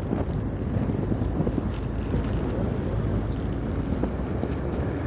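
Steady low rumbling noise with wind buffeting the microphone, with scattered faint clicks.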